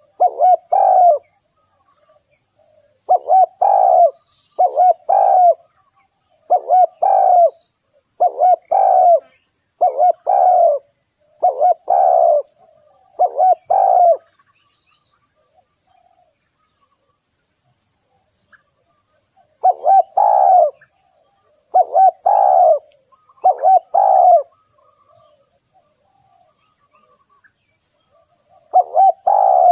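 Spotted dove cooing in repeated short phrases, its song used as a decoy call to lure wild doves. The cooing stops for about five seconds midway, then starts again.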